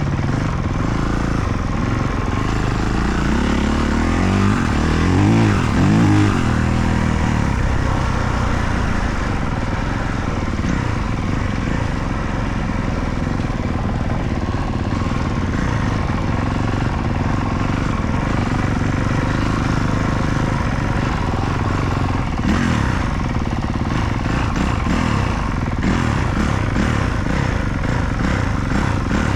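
Motocross dirt bike engines revving on the track, a steady mix of engine noise, with one bike louder about four to six seconds in, its pitch rising and falling as it revs.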